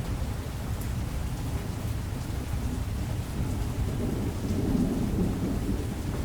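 Thunder rumbling low and continuously under steady rain, the rumble swelling about four to five seconds in.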